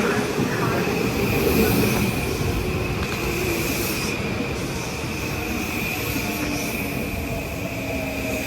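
A Metro-North train running past on the rails, with a steady high-pitched wheel squeal over the rumble of the cars.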